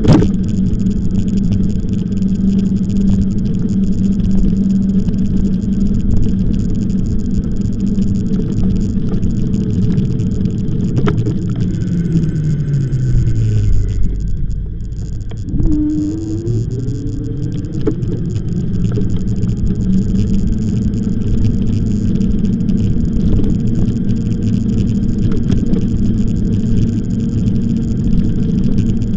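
Electric bike on the move: a steady motor hum mixed with wind and road noise. About halfway through, the hum falls in pitch as the bike slows, briefly drops away, then rises again as it picks up speed.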